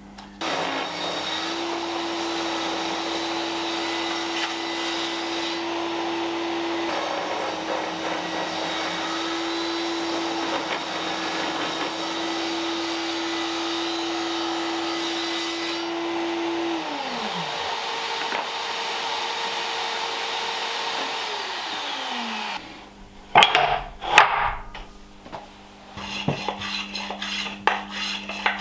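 Table saw running while oak strips are ripped, a steady motor hum under the cutting noise. The saw is switched off and winds down a little past halfway, and a second motor winds down a few seconds later. Near the end come knocks and clatter of wooden pieces being handled.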